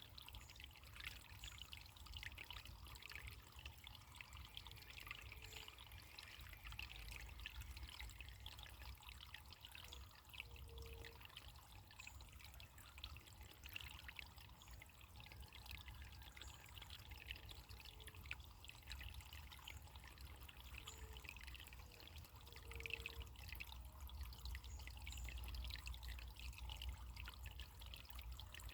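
Faint running water trickling steadily, with an unbroken splashing hiss and no pauses.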